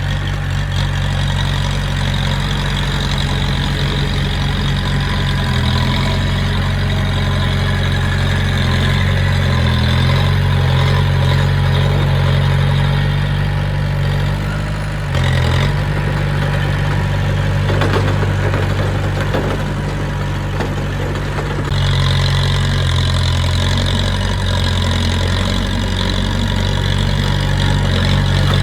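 Heavy machinery's diesel engine running steadily, its note shifting a few times.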